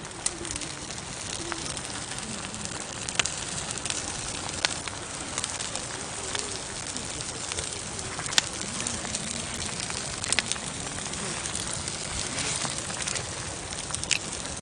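Campfire burning: a steady hiss with sharp crackles and pops at irregular intervals.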